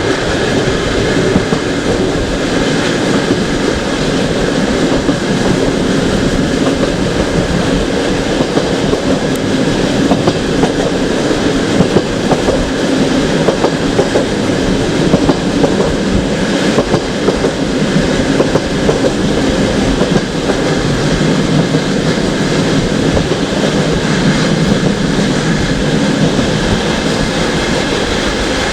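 Passenger train carriage running steadily over the rails: a continuous loud rumble of wheels on track, with now and then a clack.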